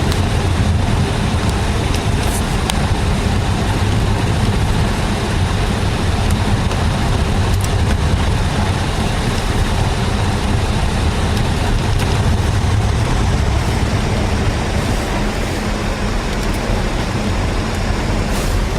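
Car driving at a steady pace: engine hum and tyre-on-road noise, constant throughout, with a few faint clicks.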